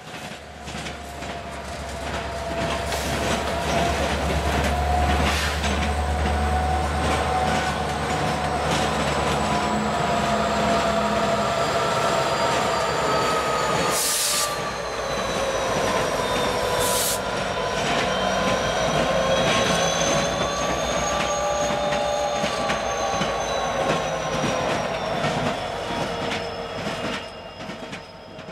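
Freight train of steel hopper cars rolling past, the wheels squealing on the rails in several wavering high tones over a steady rolling rumble. There are two sharp clacks about halfway through. The low rumble is strongest in the first half and fades after about halfway.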